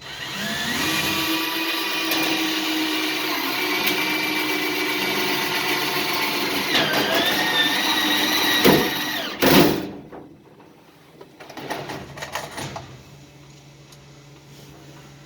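Handheld electric drill running for about nine seconds: the motor whine spins up, sags in pitch under load about seven seconds in, then stops. A loud knock follows, then a few light clicks.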